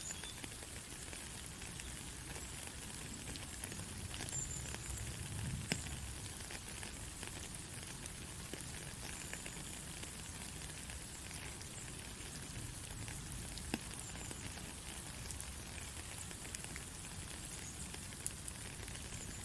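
Steady heavy rain: a continuous hiss thick with the ticks of individual drops. A low rumble swells briefly about five seconds in.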